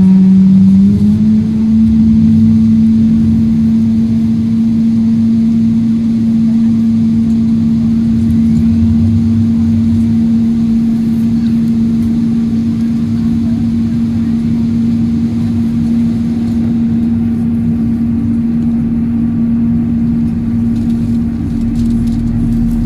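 A vehicle's steady running noise: a strong low hum that steps up slightly in pitch about a second in and then holds level, over a constant rumble.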